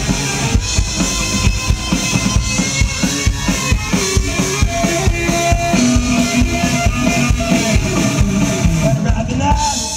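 Band music driven by a drum kit, with a steady beat of bass drum and snare hits under sustained instrument notes.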